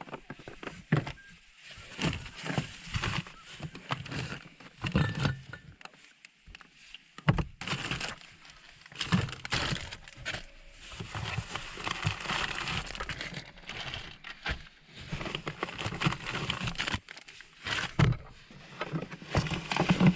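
Irregular rustling, clicks and knocks of things being handled while instant coffee is made at a camp kitchen.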